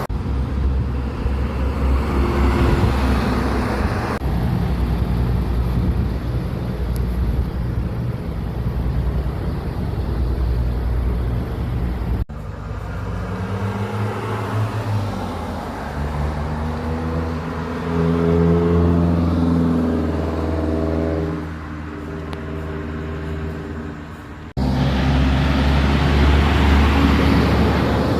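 Truck engines running in traffic, in several separate clips joined by abrupt cuts. In the middle clip an engine rises in pitch as it accelerates.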